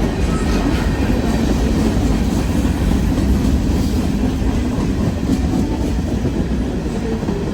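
Freight cars of a long CN freight train rolling past at about 42 mph: a steady, loud rumble with a light clatter of wheels on the rails.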